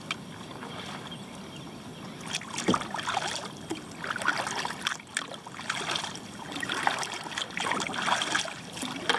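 Double-bladed paddle strokes on a sit-on-top kayak: blades dipping and pulling through the water with splashing and dripping, in swells about every couple of seconds.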